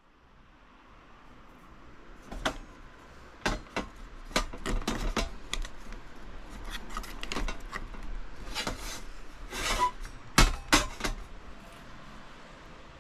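Camping gear being handled: irregular clicks, scrapes and light clatter of small hard objects over a faint steady hiss, the loudest knocks about ten seconds in.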